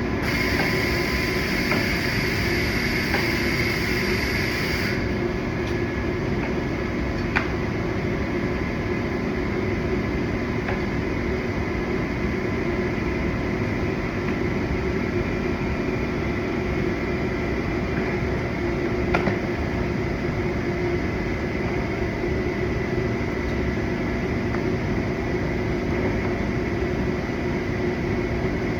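Steady mechanical hum of a running machine such as a ventilation or air-conditioning unit. A high hiss lasts about five seconds at the start and cuts off suddenly, and a few single sharp clicks come about a quarter and two-thirds of the way in.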